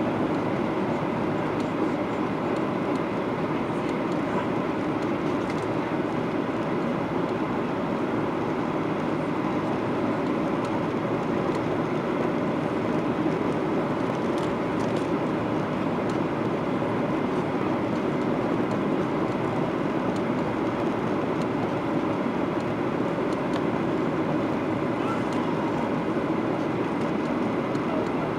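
Steady cabin noise of a Boeing 737-800 in flight on approach: rushing airflow and the even drone of its CFM56-7B engines, with a few faint steady tones.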